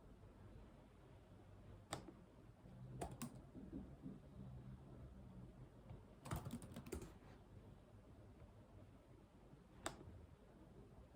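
Sparse, quiet computer keyboard keystrokes: a single key, a pair, then a quick run of several keys about six seconds in, and one more near the end.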